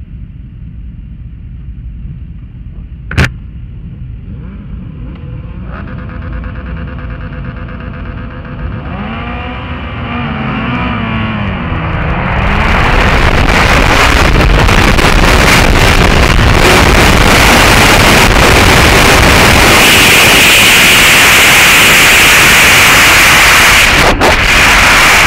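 Onboard sound of a Suzuki GSX-R 1000 K6 inline-four superbike at a race start. Engines run on the grid with revs rising and falling, and there is a sharp click about three seconds in. From about twelve seconds in the bike launches and accelerates hard, and the engine and wind noise become very loud.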